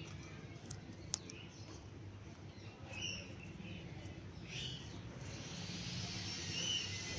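A pet parrot giving a few short, high squeaky chirps, spread a second or two apart, over a low background rumble, with one sharp click about a second in.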